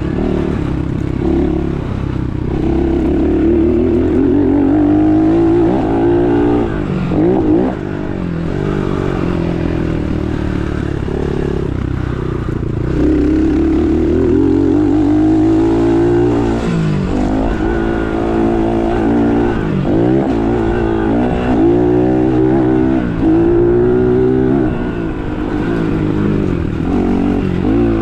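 Dirt bike engine running hard, its pitch repeatedly rising and falling as the throttle is worked on and off.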